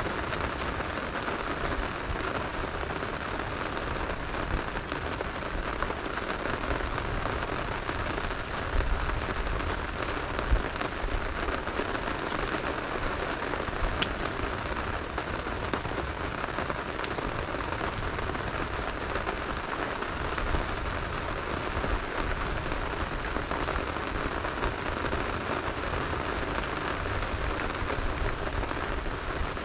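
Steady rain falling and pattering on a surface, an even, unbroken hiss throughout, with a few sharp pops or cracks standing out now and then.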